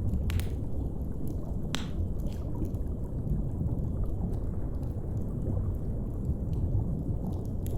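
Steady deep underwater rumble with the scattered pops and crackles of a wood fire over it, one sharper pop just before two seconds in.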